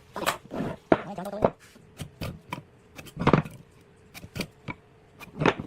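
Irregular sharp knocks and taps, a dozen or so, with brief voice sounds between them.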